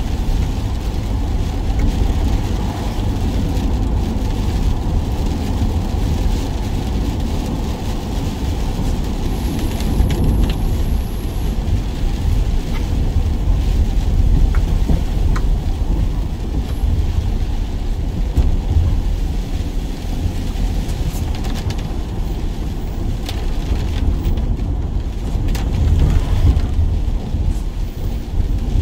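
Steady rain with a constant deep rumble underneath.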